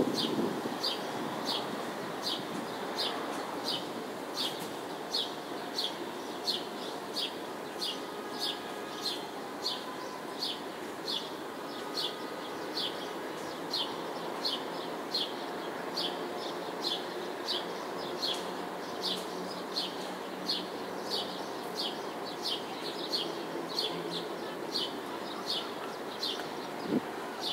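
A small bird chirping over and over, about two short high chirps a second, over a steady low hum of distant city noise.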